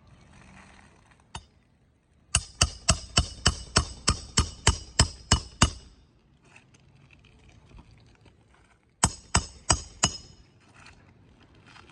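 Hammer driving roofing nails into a replacement asphalt shingle: a quick run of about a dozen sharp, ringing strikes at roughly four a second, then four more a few seconds later.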